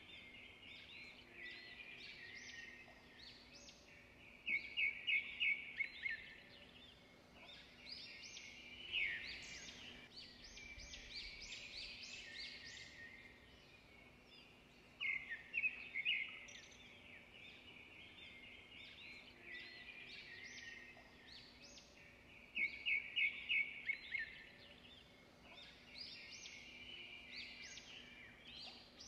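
Birds chirping and singing, with short rapid trills of repeated notes standing out several times, over a faint steady hum.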